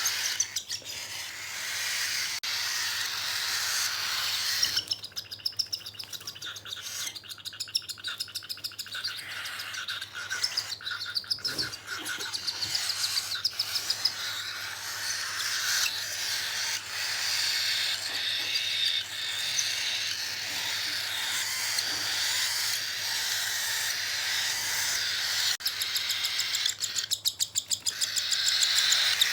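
Cockatiel chicks begging while being hand-fed: a continuous raspy, hissing chatter, with several stretches of rapid pulsing calls.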